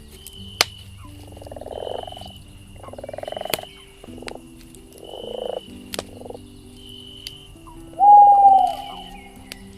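Frogs croaking in a chorus, with separate croaks every second or two and the loudest call near the end. A few sharp crackles from a campfire cut in between the calls.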